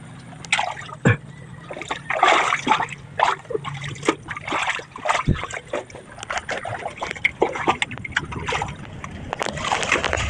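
Water splashing and sloshing in irregular bursts, with trickling between them.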